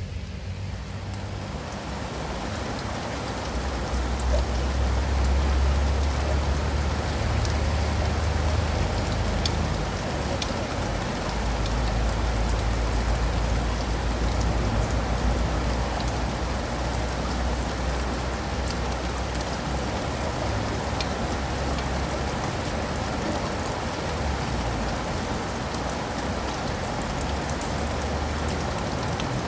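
Steady rain falling on leaves and pavement, with sharp ticks of single drops through the hiss. A low rumble sits underneath for much of the time, strongest from about four to twenty-two seconds in.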